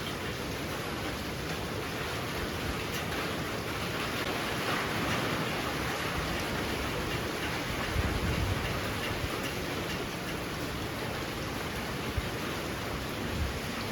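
Heavy rain falling in a steady, dense hiss. A low rumble comes about eight seconds in, and a brief low thump comes near the end.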